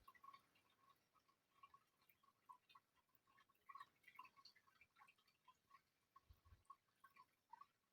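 Near silence with faint, irregular small clicks scattered throughout.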